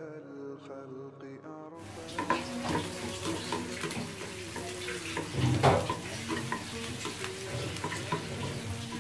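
Background music for about the first two seconds, then a sudden cut to sliced onions and green chillies sizzling in hot oil in a nonstick frying pan, with a spatula stirring and scraping across the pan. A louder scrape comes a little past the middle.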